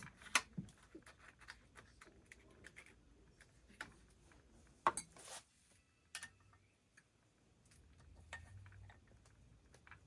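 Faint, scattered small clicks and taps of hand work on a chainsaw's ignition module and its mounting bolts, with a couple of sharper clicks about half a second in and near the middle.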